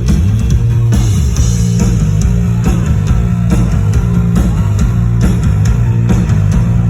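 Live rock band playing loud, distorted electric guitar and bass over drums, recorded from within the crowd.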